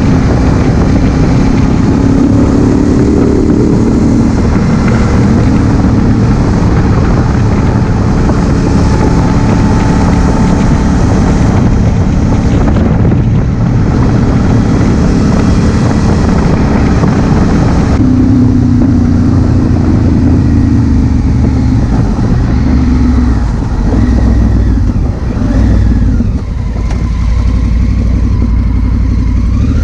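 2016 Honda Africa Twin CRF1000L's parallel-twin engine running under way, heard through a helmet-mounted camera. Its pitch rises and falls with the throttle and gear changes, easing off briefly a few times near the end.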